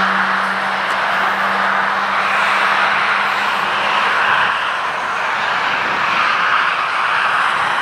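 Distant train rolling past: a steady rushing noise of wheels on the track, with a low diesel-locomotive hum that fades out about four seconds in.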